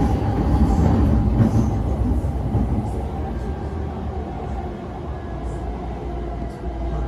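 Steady rumble of a moving Chūō-Sōbu Line commuter train heard from inside the carriage: wheels on the rails and running gear. It gets somewhat quieter about three seconds in.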